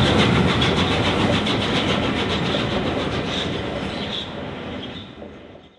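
Steam locomotive 60163 Tornado and its support coach running past, wheels clattering rhythmically over the rail joints. The sound fades as the train draws away, then stops abruptly at the end.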